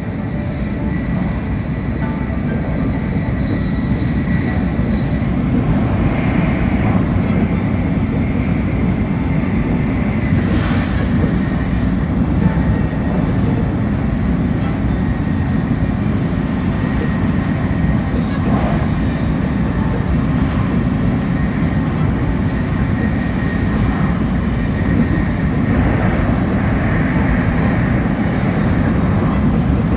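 Shinkansen bullet train running at speed, heard from inside the carriage: a steady low rumble with a thin high whine over it.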